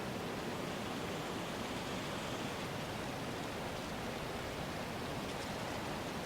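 A steady, even rushing noise with no distinct events or rhythm, the unbroken background bed of an ambience soundtrack.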